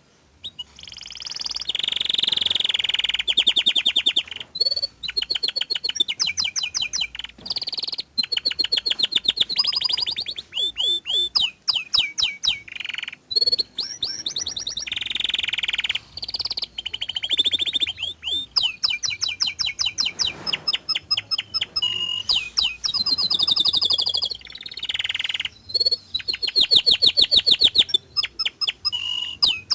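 Domestic canary singing non-stop: long rapid rolling trills and runs of high repeated notes, phrase after phrase with only brief pauses between them.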